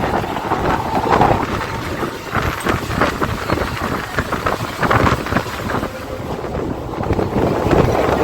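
Mumbai suburban local train running, with wind buffeting the microphone and irregular clatter.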